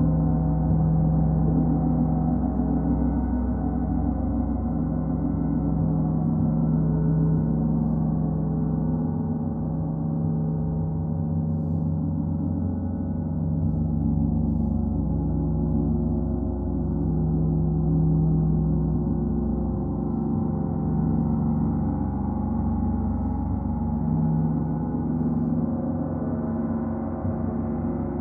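A gong played softly and continuously: a sustained, dense wash of overlapping ringing tones that gently swells and eases, with no distinct strikes.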